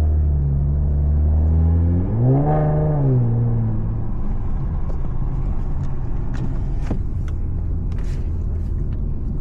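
Infiniti Q50's engine and modified exhaust heard from inside the car: a steady low drone, a brief rev that rises and falls about two seconds in, then an even rumble of driving with a few faint ticks near the end.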